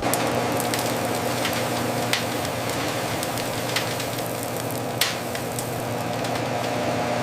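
Machinery running steadily in a factory: a constant hum under a hissing noise, with a few sharp clicks, the loudest about five seconds in.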